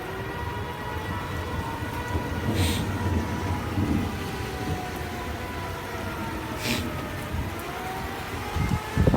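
Outdoor tornado warning siren wailing faintly, its pitch sliding slowly up and down, over a steady low rumble. Two short hissing bursts come about a third and two thirds of the way through.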